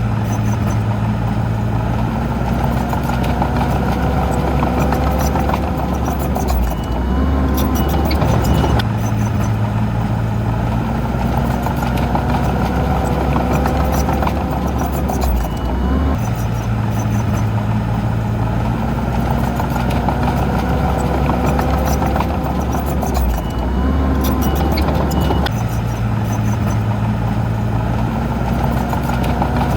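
Heavy diesel engine of earthmoving machinery running steadily. Its low note steps up and down in a repeating cycle of about eight seconds.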